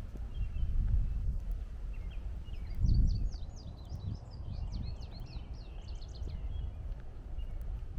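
Birds singing: faint short chirps throughout, and from about three seconds in a rapid run of quick, high notes lasting a few seconds. Under them is a low rumble, loudest about one second and three seconds in.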